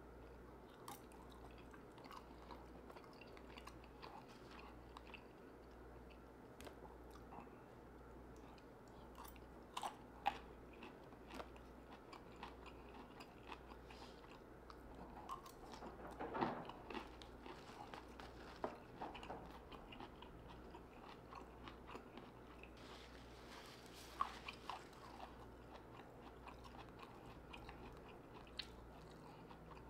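Faint close-miked chewing and biting of someone eating steamed broccoli and buttered shrimp, with scattered short wet smacks and clicks, the sharpest about ten, sixteen and twenty-four seconds in.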